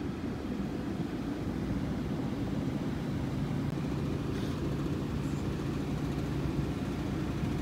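Car engine running steadily at low revs: an even, low hum with a constant drone.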